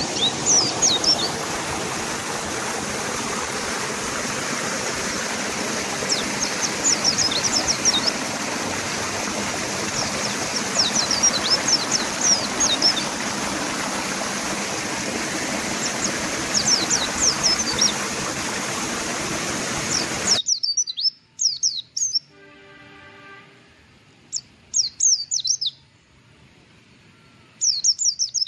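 Mountain white-eyes singing short bursts of rapid high chirps every few seconds over the steady rush of river water. The water sound cuts off abruptly about two-thirds of the way through, leaving the birdsong alone with a brief lower-pitched call.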